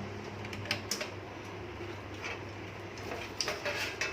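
Light clicks and taps of plastic power-supply connectors and cables being handled while the CPU power connector is fitted to the motherboard, over a steady low hum.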